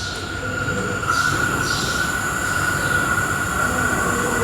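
Calgary CTrain light-rail train arriving at the platform. A steady high-pitched squeal grows louder about a second in, over the rumble of the train.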